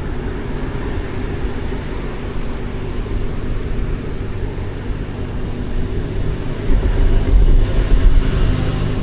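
Steady low rumble of street traffic, swelling louder and deeper for a couple of seconds near the end as a vehicle passes close.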